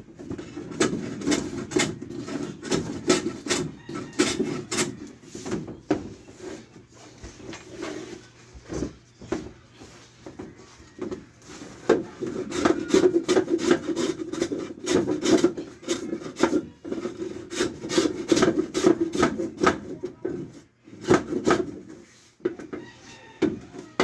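A hand tool worked back and forth on wood in quick, repeated rasping strokes, with a quieter stretch in the middle and a short break near the end.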